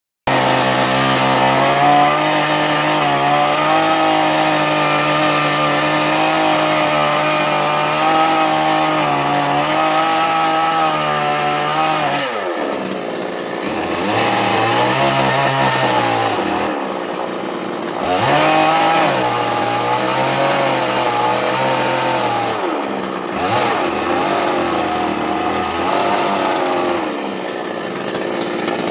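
Chainsaw cutting coconut palm wood, running steadily at high speed for about twelve seconds. Its pitch then drops sharply, and it revs up and down three times.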